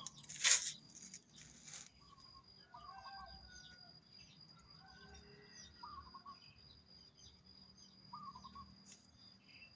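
Small birds chirping in the background, many short scattered calls, over a faint steady high tone. A brief rustling noise about half a second in is the loudest sound.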